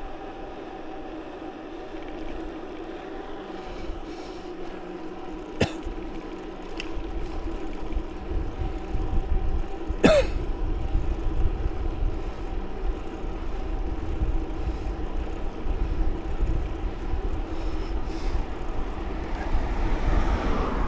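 Riding a bicycle along a road: wind rumbles on the microphone, growing louder partway through, over a steady hum. Two sharp clicks, the second a little after the halfway point.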